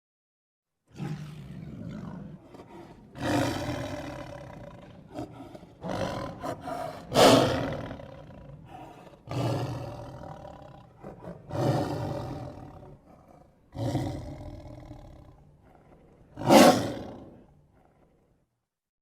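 A run of about eight monster roars and growls, layered from mixed animal calls (smilodon, walrus, polar bear, gorilla, camel, cougar, moose), each swelling and then fading. The loudest come about seven seconds in and near the end.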